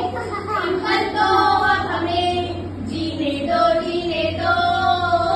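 Young children singing a song together, in held melodic phrases.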